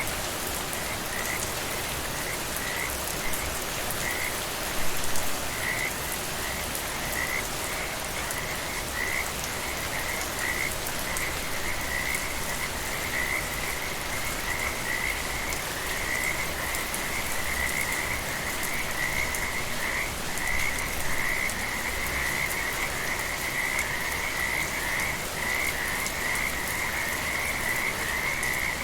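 Frogs calling in short repeated notes at one high pitch, scattered at first and merging into a near-continuous chorus from about halfway through, over a steady hiss of rain.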